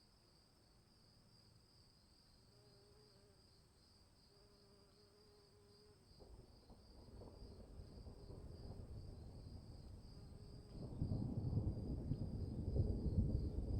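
Crickets chirring in a steady, fast-pulsing high chorus. Beneath them a low rushing rumble builds about halfway through and grows clearly louder near the end.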